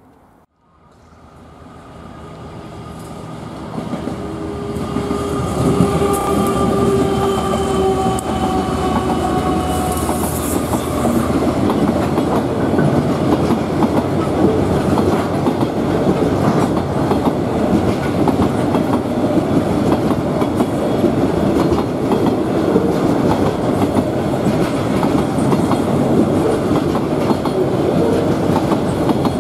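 Aurizon 2800 class diesel-electric locomotive approaching and passing with a container freight train. Its engine note swells over the first few seconds and sags slightly in pitch as it goes by. Then comes the steady rumble and clickety-clack of container wagons rolling past.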